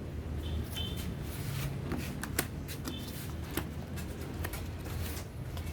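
Packaging being handled during an unboxing: rustling and crinkling with scattered light clicks and taps, over a steady low hum.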